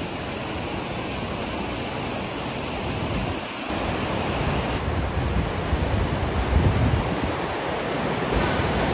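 Steady hiss of rain. It grows louder a little over a third of the way in, with irregular low rumbling like wind on the microphone.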